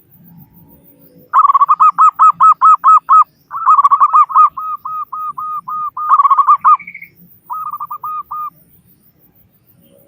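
Zebra dove (perkutut) calling: quick runs of short, evenly repeated cooing notes, about five a second, in three bursts with brief pauses, the last one short.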